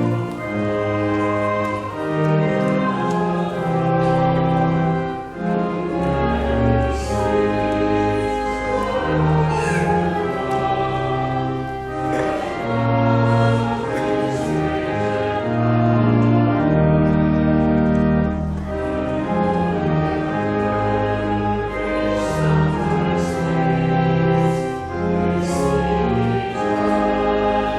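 Closing hymn in church: held chords changing every second or two over a steady bass, with a congregation singing along.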